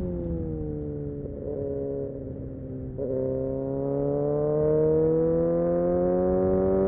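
Kawasaki Ninja ZX-6R's inline-four engine: revs sag off the throttle for about three seconds, then the throttle opens and it pulls with a steadily rising note, getting louder.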